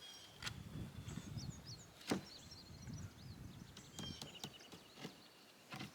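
A few scattered knocks and low handling rumble as a slab-wood offcut is set into place in a wooden wall, the loudest knock about two seconds in. Birds chirp faintly in the background.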